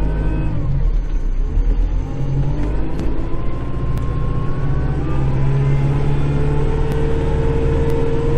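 Kubota Grand L5740 tractor's diesel engine running under load as heard inside the cab; the engine note drops about a second in and builds again about five seconds in, when a steady whine joins it.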